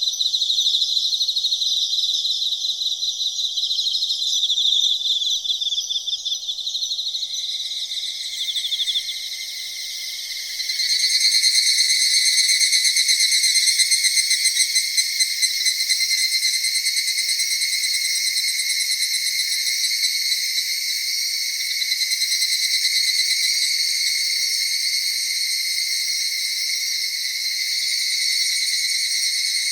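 Night insects such as crickets trilling in a dense, continuous chorus of high pulsing chirps. From about eight seconds in, a lower, louder trill comes in and takes over just after ten seconds.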